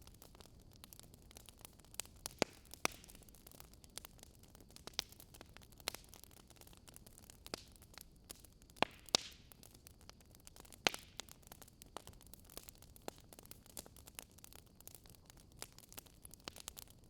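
Wood fire crackling: irregular sharp pops and snaps over a faint steady hiss, with a few louder pops about two, nine and eleven seconds in.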